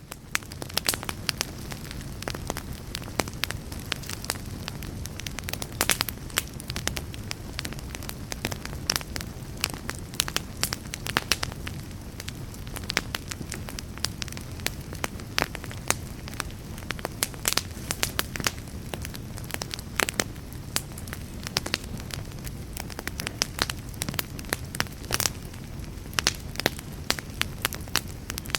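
Fire burning with frequent sharp crackles and pops, irregularly spaced, over a steady low rumble of the flames.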